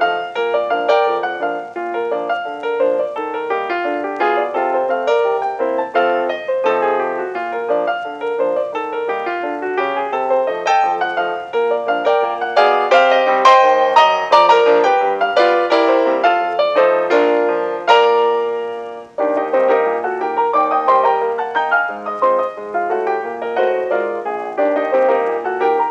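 Background solo piano music, a light, bouncy piece with quick, regular notes.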